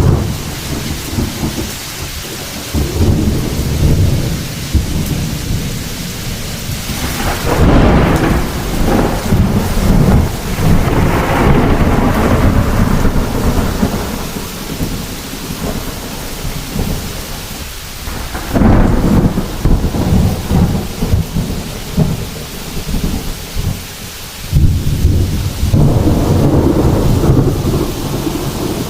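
Heavy rain falling steadily with rolling thunder: three long, deep rumbles, the first about seven seconds in, another near the middle of the stretch and a third near the end.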